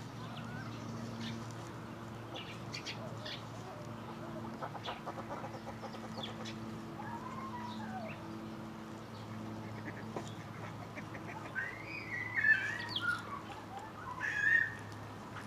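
Flock of Eurasian coots calling as they feed: scattered short calls and small clicks, with a few louder, sharper calls near the end. A steady low hum runs underneath.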